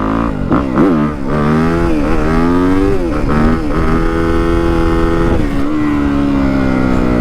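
Yamaha WR250F single-cylinder four-stroke dirt bike running through a YZ slip-on exhaust, the revs rising and falling several times as the rider works the throttle and gears. It then settles into a steady pitch that slowly drops, with a brief dip about five and a half seconds in.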